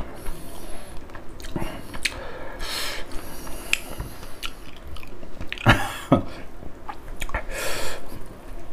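Chewing and lip-smacking of a man eating rice and pork by hand: wet smacks and small clicks at irregular intervals, a few louder smacks in the middle and near the end.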